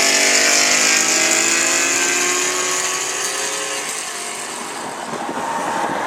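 Race car engine running hard under load as it pulls away, its steady pitch slowly dropping and the sound fading out about four seconds in.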